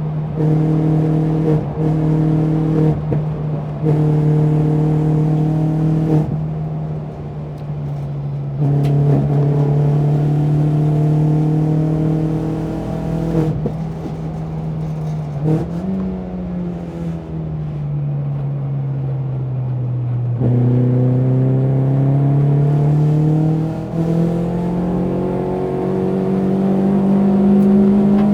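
BMW 116i race car's four-cylinder engine running hard on track, with a few brief breaks in the engine note in the first seconds. About halfway through the pitch falls slowly as the car slows, then rises again under acceleration, with a gear change near the end.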